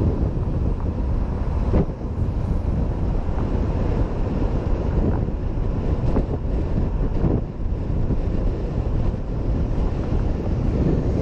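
Wind rushing over a helmet-mounted camera's microphone while riding a Honda PCX 125 scooter, with its engine and road noise underneath.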